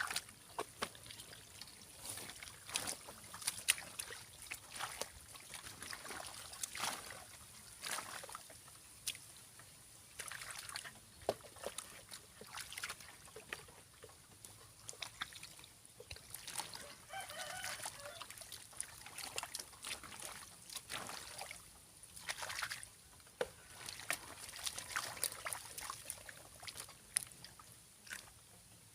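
Shallow muddy water splashing and sloshing as someone wades and gropes for fish, in many short irregular splashes. A rooster crows once about seventeen seconds in.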